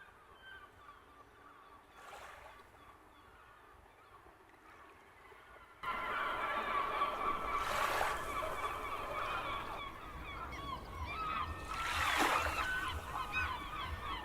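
A flock of seagulls crying, many short calls overlapping, faint at first and then cutting in abruptly and much louder about six seconds in.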